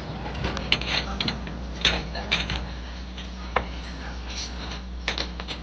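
Busy market ambience: scattered clatter and knocks, as of wood and crockery being handled, over a steady low hum, with faint voices in the background.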